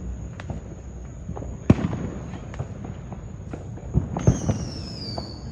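Fireworks going off: a run of sharp bangs and pops, the loudest about two seconds in and another cluster near the end. Near the end a high falling whistle comes in over them.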